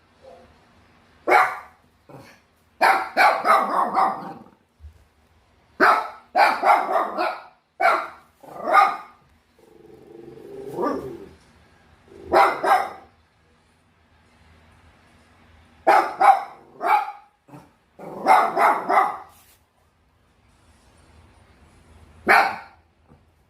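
Bichon Frise barking in irregular bouts of a few sharp barks with pauses between, and a lower, drawn-out growl-like sound about eleven seconds in.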